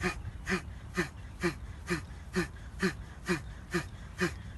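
Kapalabhati (fire breathing): short, forceful exhales through the nose, about two a second in an even rhythm, each driven by a contraction of the belly and pelvic floor.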